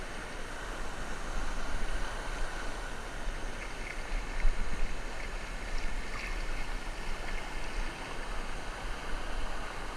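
Steady rush of fast-flowing creek water, with low rumbling on the microphone.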